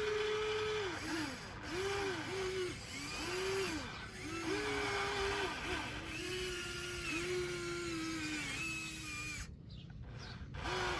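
Small electric motors of a radio-controlled construction model whining. The controls are worked in short bursts, so the pitch rises and falls over and over, about twice a second, after a steady whine at the start.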